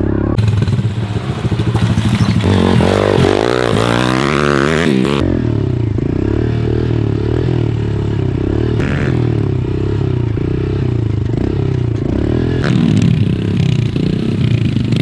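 MRF 140 TTR pitbike's small engine revving up and down over and over as it is ridden, its pitch rising and falling.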